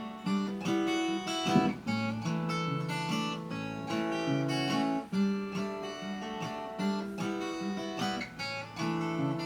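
Solo acoustic guitar playing the instrumental outro of a song, plucking and strumming chords in a steady rhythm, with no singing.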